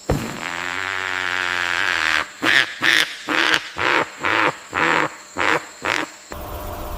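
An animal calling: one long harsh call of about two seconds, then about eight short calls at roughly two a second, stopping about six seconds in.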